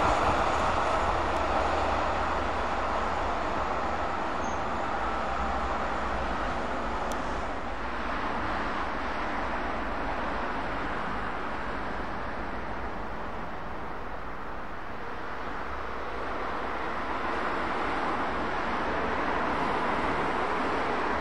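EN57 electric multiple unit running past on the rails and fading away, followed about eight seconds in by a fainter, steadier rumble of a distant train on the line.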